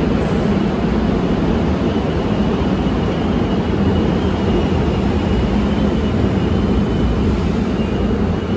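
Steady low rumble of a train running at the subway platform, with a faint high whine for several seconds in the middle.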